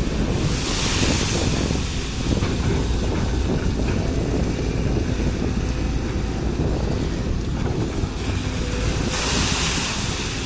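Sumitomo hydraulic excavator running, a steady low rumble, with a rushing hiss that swells up briefly about half a second in and again near the end.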